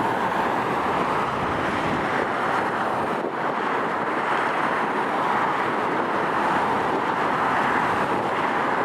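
Steady rushing noise of an airliner's jet engines running at idle, with wind on the microphone.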